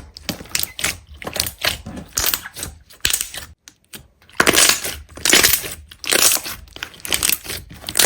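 A run of short, irregular crunching sounds, roughly one or two a second, loudest about halfway through, like something being crushed or broken apart by hand.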